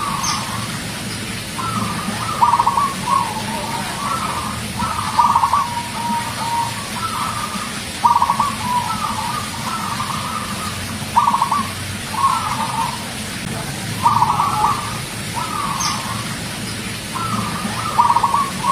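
Zebra dove (perkutut) cooing: a run of repeated multi-note coo phrases, a new phrase about every three seconds.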